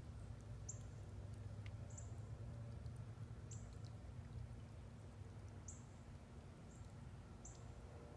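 Short, high-pitched chirps of a small bird, repeated about six times at uneven gaps of one to two seconds, each dipping slightly in pitch, over a faint low steady hum.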